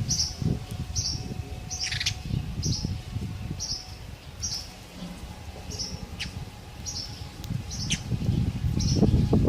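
Sparrow chirping over and over, one short high chirp about every second, with a few sharper call notes among them. A low rumbling noise runs underneath and grows louder near the end.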